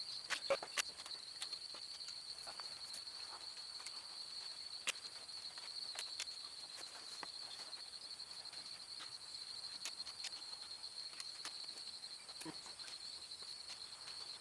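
Insects trilling steadily on one high pitch, with scattered sharp clicks and taps, a few louder ones near the start.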